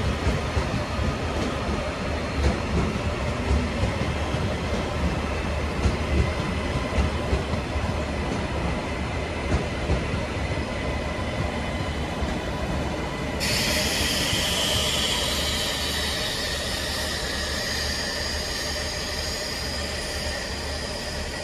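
TransPennine Express passenger train running into the station and braking, with a steady rumble and repeated knocks from the wheels over rail joints. About 13 seconds in, a high-pitched squeal from the wheels starts suddenly and holds as the train slows toward its stop.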